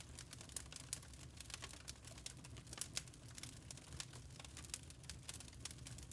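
Burning charcoal crackling: irregular sharp ticks and pops, several a second and uneven in strength, over a faint low hum.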